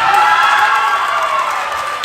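Crowd cheering and screaming in a gym, many high voices held at once over applause, starting loudly and slowly easing off.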